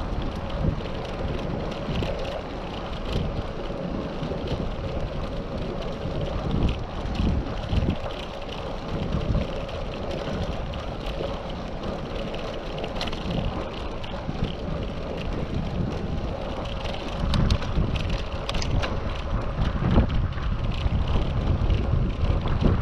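Wind buffeting the microphone of a camera riding on a moving bicycle, over a steady rumble of tyres on the road, with scattered small clicks and rattles. It grows louder in the last few seconds.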